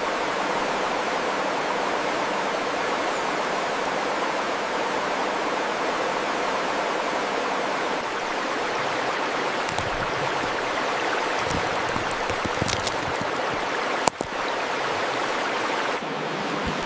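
Steady rushing noise like running water, with a few sharp clicks in the second half and one louder click about two-thirds of the way through.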